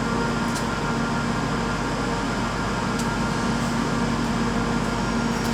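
Steady mechanical hum of a railway station platform, an even whir with several held tones underneath, with no single train passing clearly.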